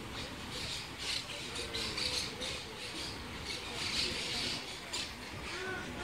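Birds calling with many short, harsh squawks, one after another, over faint distant voices.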